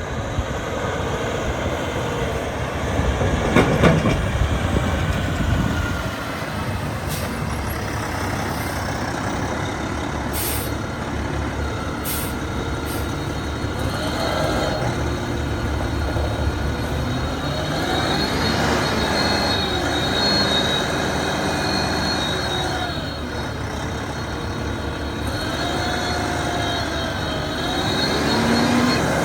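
2011 Kenworth T800 roll-off truck's diesel engine running, with a louder burst of noise about four seconds in. In the second half a whining tone rises and falls in pitch several times.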